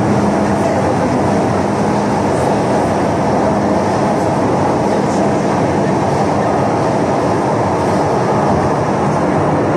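Moving train running with a steady, even rumble, and a faint hum in the first couple of seconds.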